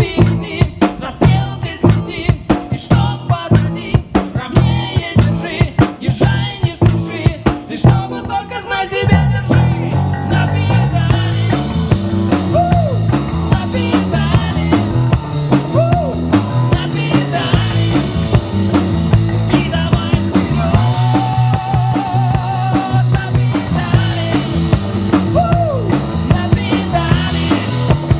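Live rock band playing an instrumental passage: about nine seconds of mostly drums, then the full band comes in with bass and a lead electric guitar playing bent notes with vibrato.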